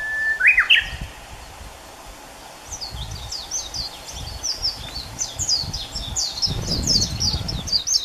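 Songbirds singing: a long whistled note that breaks into a few quick rising notes at the start, then from about three seconds in a fast run of high, chirping notes.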